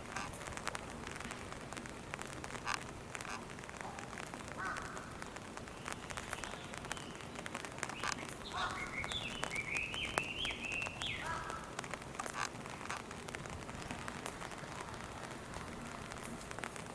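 Steady rain pattering, with scattered drips. About halfway through, a bird gives a short run of rising and falling calls.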